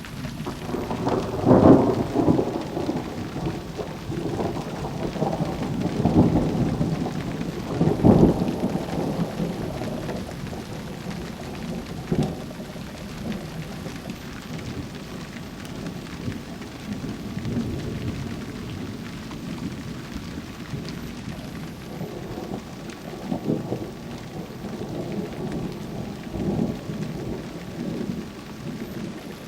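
Thunder rolling and rumbling in long swells, loudest about two seconds and eight seconds in, with weaker rolls later on, over steady rain.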